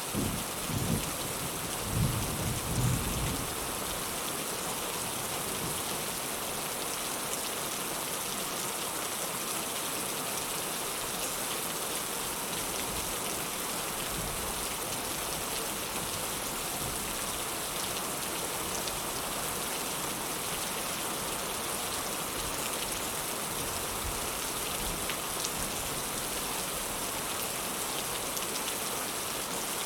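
Heavy rain falling in a steady hiss, with low rumbles of thunder in the first few seconds and a fainter rumble about 25 seconds in.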